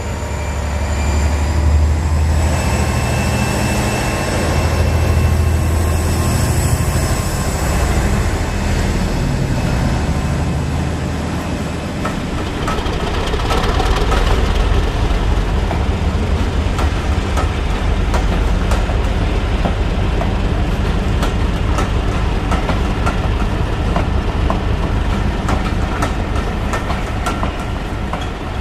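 A model diesel locomotive and its train running on a model railway: a steady low engine drone with a high whine at first, then the wheels clicking quickly over the rail joints as the train rolls past.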